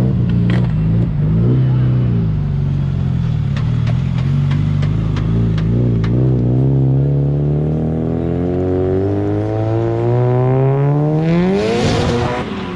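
A car engine idling with a few small blips, then revving steadily higher for about four seconds to a peak with a burst of hiss near the end before it drops.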